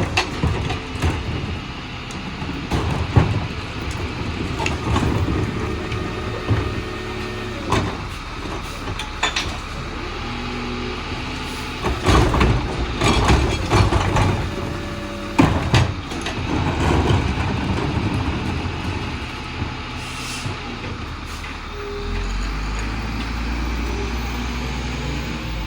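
Freightliner garbage truck with a Heil Formula 4000 rear-loader body running, with repeated bangs and clattering from collection work at the rear. The engine's low sound gets stronger and steadier near the end.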